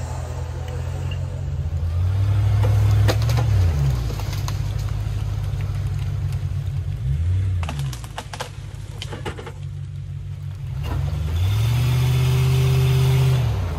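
Old Land Rover Discovery's engine revving up and holding three times as it labours over a rough off-road track, with bursts of clattering knocks between the revs.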